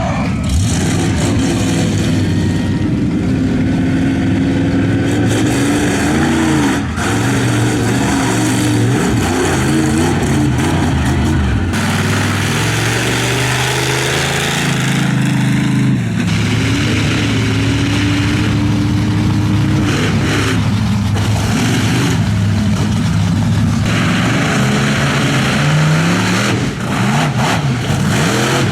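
Monster truck engine revving, its pitch rising and falling again and again as the throttle is worked.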